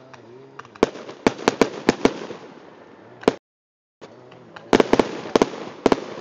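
Fireworks finale: aerial shells bursting in quick succession, a string of sharp bangs over a steady rumble, with a dense cluster of several bangs in under a second near the end. The recording cuts out completely for about half a second around the middle.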